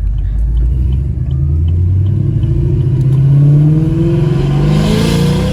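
Chevrolet Camaro SS's 6.2-litre LT1 V8 accelerating hard through a gear with its Valvetronic exhaust valves open, a deep exhaust note rising steadily in pitch for about five seconds, then falling away near the end.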